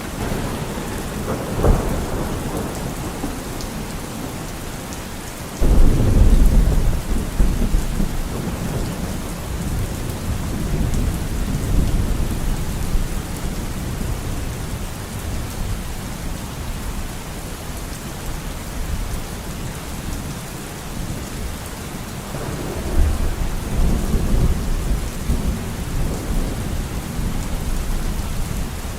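Steady rain with thunder: a sudden loud clap about six seconds in rolls off into a long rumble, and a second, weaker rumble follows near the end.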